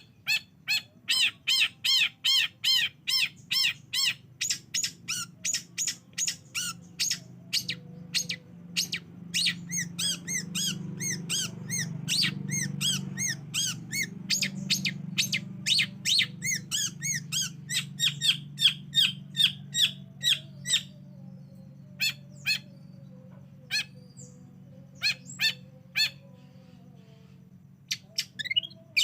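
Long-tailed shrike (cendet) singing a fast run of repeated harsh, chattering notes, several a second, thinning to a few scattered notes for a while near the end.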